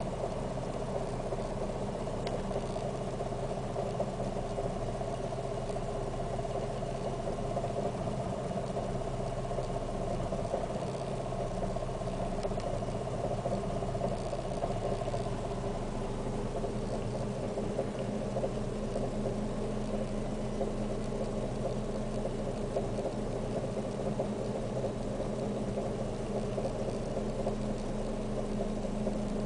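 Fiat Siena 1.6 four-cylinder engine idling steadily, heard from inside the cabin. It is running rough: the owner feels a constant shake at idle and notes noise getting into the interior.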